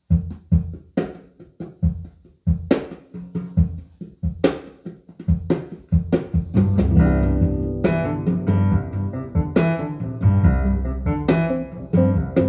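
Jazz drum kit opening a track alone with separate kick, snare and cymbal hits; about seven seconds in, the rest of the band, double bass and piano, comes in. Played back over hi-fi loudspeakers and picked up in the listening room.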